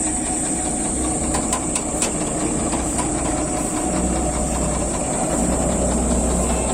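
RAM 985 combine harvester running steadily: a low engine hum under a constant high hiss, with a few faint clicks about a second and a half in.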